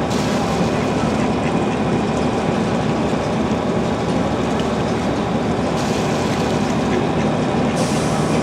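Steady engine drone and rushing noise of a river sightseeing boat underway, with a low hum under an even hiss.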